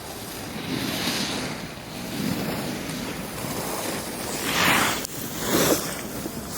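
Edges scraping and carving over packed snow while sliding downhill, with wind rushing over the microphone. There are two louder, harsher scrapes near the end, a second apart.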